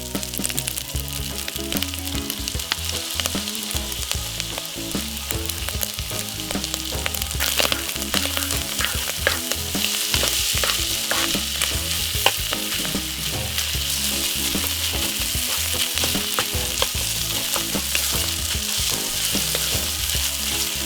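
Food frying and sizzling in a hot pan while it is stirred, with frequent sharp scrapes and clicks of the utensil against the pan. The sizzle grows louder about halfway through.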